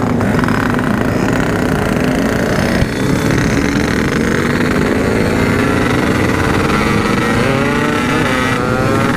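Two-stroke Yamaha RX-King motorcycle engine ridden hard at full throttle. There is a brief dip about three seconds in, then the engine pitch climbs steadily as it accelerates.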